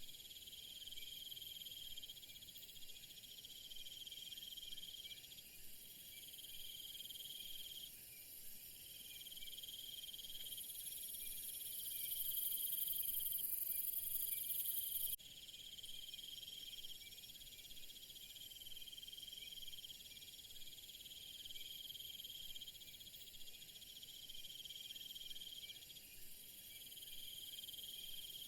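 Chorus of crickets and other insects. A high trill sounds in stretches of a few seconds with short breaks, over a constant higher shrill. About ten seconds in, a louder, very high buzz joins and cuts off suddenly about five seconds later.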